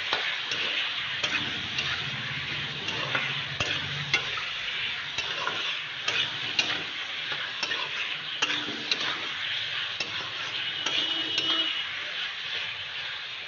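Chicken pieces and potato slices sizzling as they fry in oil in a kadai, stirred with a metal spatula that scrapes and knocks irregularly against the pan.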